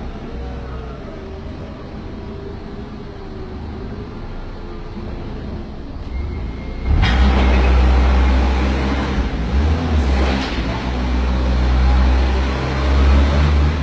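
Forklift engine running at a low idle, then revving up sharply about halfway through and holding at high revs, as when the forklift works its lift under load.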